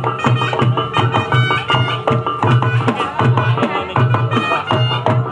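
Traditional Reog Ponorogo music: drums struck in a fast, busy rhythm over a low note that pulses regularly, with held higher tones above.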